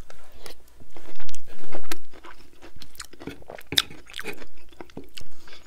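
Close-miked chewing of a mouthful of loaded tater tots: a string of short, irregular wet mouth clicks and smacks, with a few louder bites along the way.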